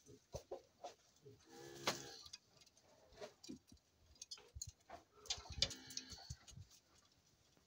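Poultry in a pen calling twice, once about two seconds in and again about five and a half seconds in, amid scattered light ticks and taps.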